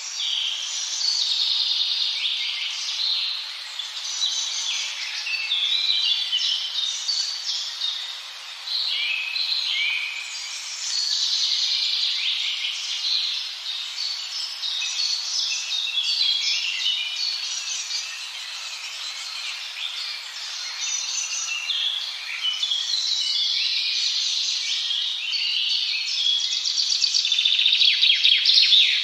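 Several birds singing and calling at once: a dense, unbroken chorus of high chirps and short trills, a little louder near the end.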